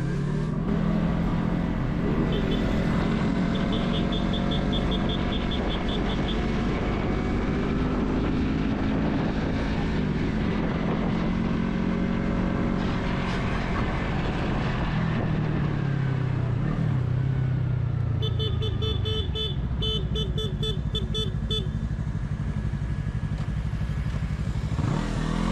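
Motorcycle engines running in traffic, rising and falling in pitch as they accelerate and ease off. A horn sounds a rapid series of short beeps about two seconds in, and again more loudly near the end.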